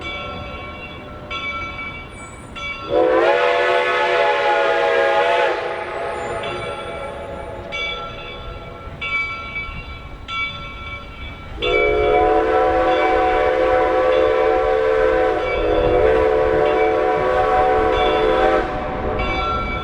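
Steam whistle of Reading & Northern 4-6-2 steam locomotive 425 blowing a long blast about three seconds in, then two more long blasts almost back to back from about twelve seconds in.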